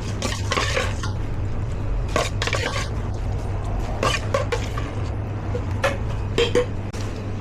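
Kitchen clatter of utensils and containers being handled: a dozen or so short knocks and clinks, irregularly spaced, over a steady low hum.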